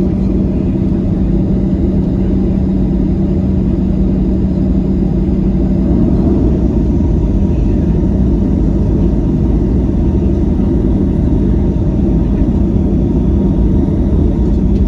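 Loud, steady cabin rumble of a Boeing 737-900 with its CFM56 jet engines running, heard from inside the passenger cabin, with a constant low hum under it.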